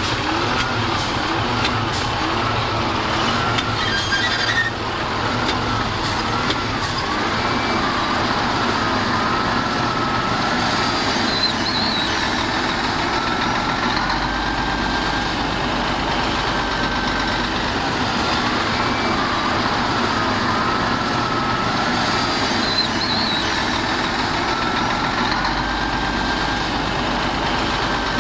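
Heavy earthmoving machinery, trucks and a bulldozer, running steadily, with a wavering whine over the engine noise.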